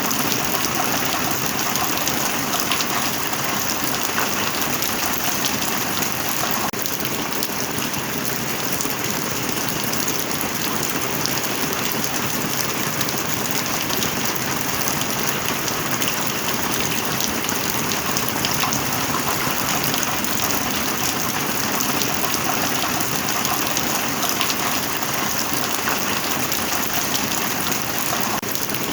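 Steady heavy rain: a dense, even hiss of falling drops that holds level throughout.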